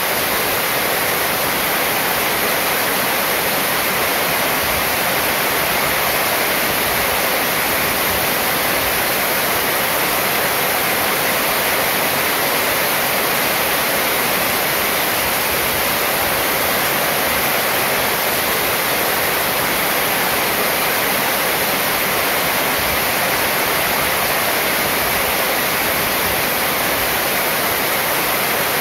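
Heavy rain drumming on a corrugated metal roof and streaming off its edge: a steady, unbroken hiss.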